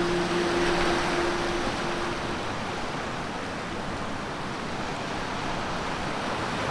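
Sea surf washing onto the shore, a steady rushing noise. Held notes of background music fade out about two seconds in.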